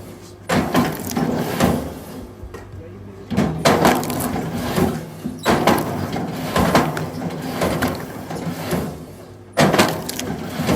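Firewood being worked: several sharp wooden knocks and cracks, about four in all, each trailing off in a short clatter, over a steady low hum.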